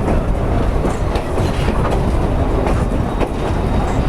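Durango & Silverton narrow-gauge steam train running along the track: a steady loud rumble with the irregular clickety-clack of wheels over the rails.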